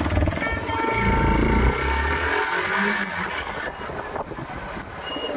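Yamaha MT-15 motorcycle riding on the road, its engine running under a low rumble of wind on the microphone. The rumble surges twice, then eases off.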